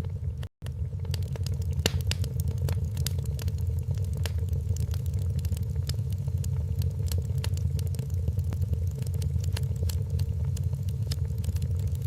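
Wood fire crackling, with many sharp snaps and pops at irregular intervals over a steady low rumble. The sound drops out briefly about half a second in.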